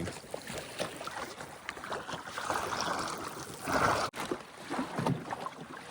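Water rushing and splashing along the hull of a small sailing dinghy moving fast, with two louder surges of wash partway through.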